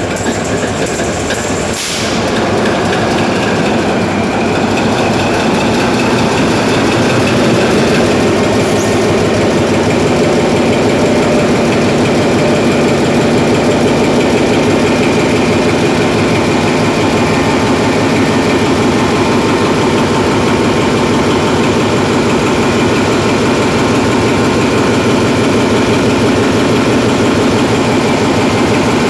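Hyundai Himsen marine diesel generator engine picking up speed about two seconds in, its pitch and loudness climbing for several seconds, then running steadily.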